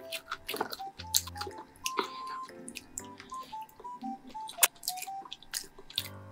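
Close-miked eating sounds: a person chewing, with sharp clicks of chopsticks against the food container, the loudest click coming a little past the middle. Under it runs background music, a simple melody of single held notes.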